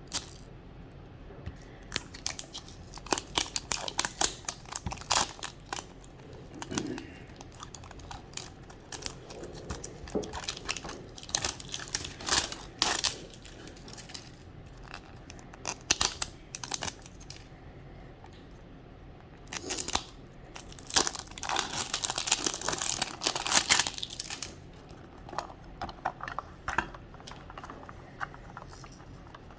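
Plastic wrapping on a Mini Brands capsule ball crinkling and tearing as it is unwrapped by hand, in irregular crackly bursts that are busiest about two-thirds of the way through.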